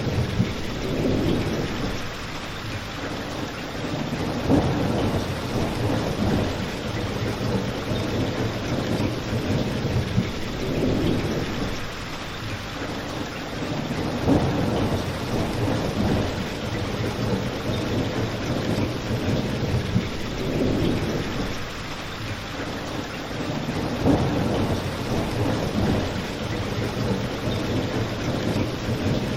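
Steady rain with a low rumble that swells and fades every few seconds, and a few sharp pops from a crackling fireplace.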